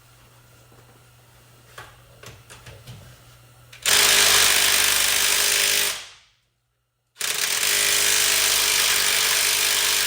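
Handheld power tool run in two steady bursts, one of about two seconds and a longer one after a short pause, working on rusty wheel lug nuts and studs.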